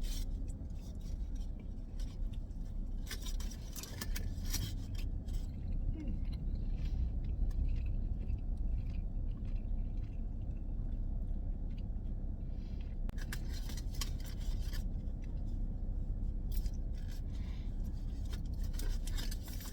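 Steady low rumble of a vehicle cabin, with scattered rustles and light clicks from handling food while eating.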